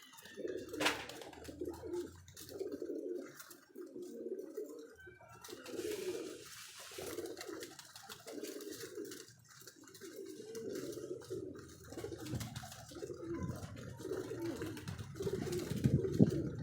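Domestic pigeons cooing, several birds calling over one another in a steady run of low, rolling coos about a second each. A sharp click sounds about a second in.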